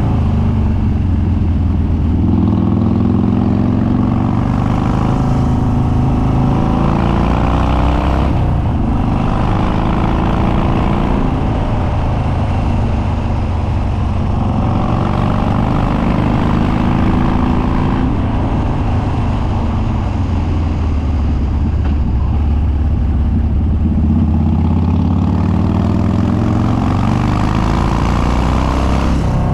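A 2013 Harley-Davidson Dyna Street Bob's Twin Cam V-twin with Stage 2 cams and unbaffled upswept dual exhaust, under way. The engine pitch climbs as it accelerates and drops at each gear change or roll-off, with a short throttle-off about eight seconds in.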